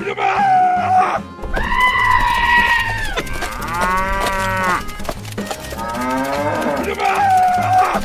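Cow mooing, about five long calls one after another, over background music with a steady beat.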